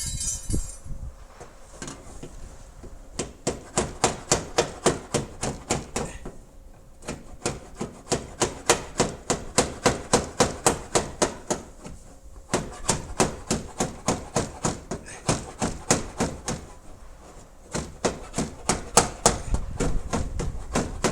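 Metal hammer tapping on a car's dented steel body panel, in runs of rapid even strikes about three a second with short pauses between runs, as the dent is worked back out.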